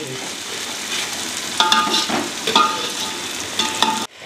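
Chopped onion, tomato and green chilli sizzling in hot oil in a metal pot, stirred with a steel ladle that scrapes the pot three times with brief ringing squeaks. The sound drops out for a moment near the end.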